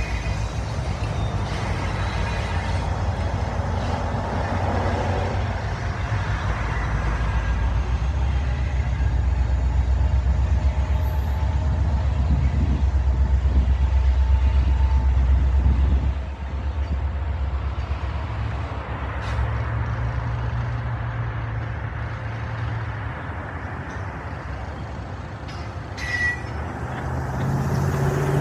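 Union Pacific manifest freight train passing: the diesel locomotives' heavy low rumble for the first half, dropping off suddenly after about sixteen seconds to the steadier rolling of the freight cars.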